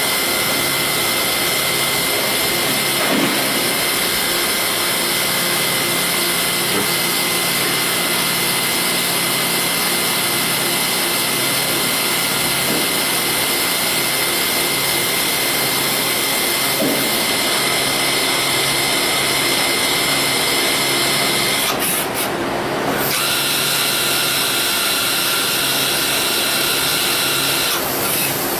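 Swiss-type CNC lathe machining a small bone screw: a steady machining noise with a fixed high whine over a hiss. About three-quarters of the way through, the hiss briefly breaks off for about a second.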